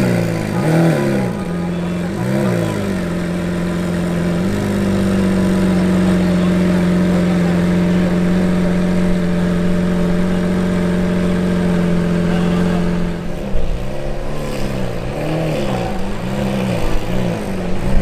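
Lamborghini Centenario's V12 engine blipped in a few short revs, then held at a steady raised idle for several seconds, then blipped repeatedly again near the end.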